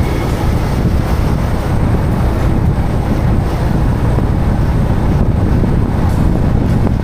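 Wind rushing over the microphone of a camera on a moving motorcycle: a steady, loud low rumble with riding noise underneath.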